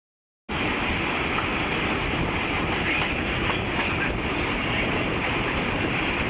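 A train running on the rails, with steady, loud wheel and rail clatter. It cuts in abruptly about half a second in, after silence.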